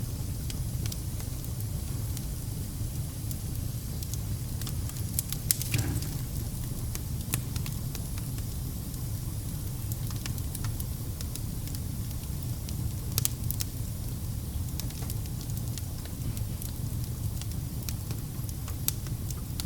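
Wood fire burning in a fireplace: a steady low rumble with scattered sharp crackles and pops, the loudest cluster about five to six seconds in.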